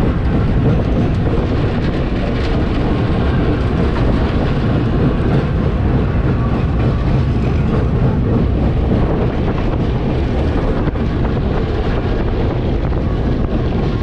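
Passenger train running at speed, heard from inside a sleeper coach: a steady loud rumble and rattle of the wheels on the track.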